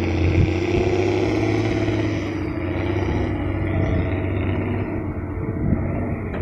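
Dump truck's diesel engine running with a steady low hum, easing off and growing duller from about halfway through as the truck moves away.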